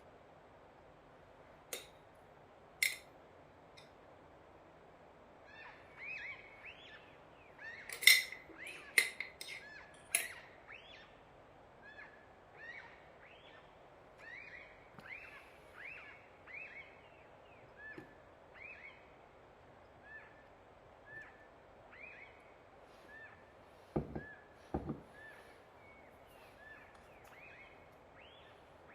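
An animal's short high calls, each rising and falling, repeated about once a second. They are joined by a few sharp clinks early on and two dull knocks near the end.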